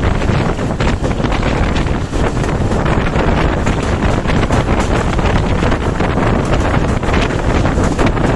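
Express passenger train running past at speed: a loud, steady rush of wheels on rail with rapid clattering, and wind buffeting the microphone.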